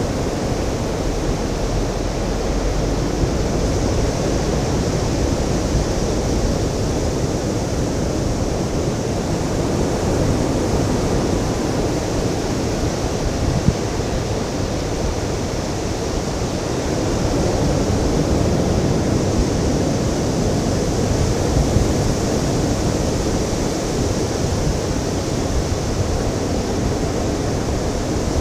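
Ocean surf washing onto a beach: a steady rushing hiss that swells slightly about two-thirds of the way through.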